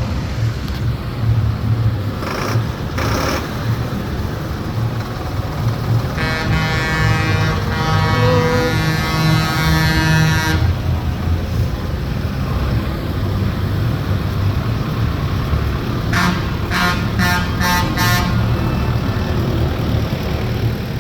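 Tractor engines running with a steady low rumble. About six seconds in, a horn sounds one long blast of about four seconds. Later it gives a quick series of four or five short toots.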